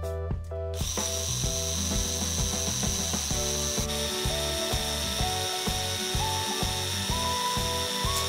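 A power tool starts about a second in and runs steadily with a high whine, over background music with a simple melody.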